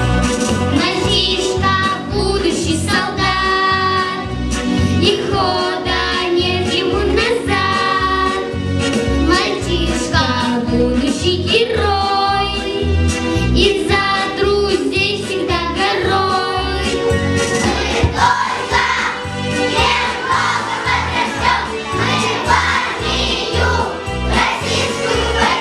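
A group of young children singing a song together over a backing track with a steady beat.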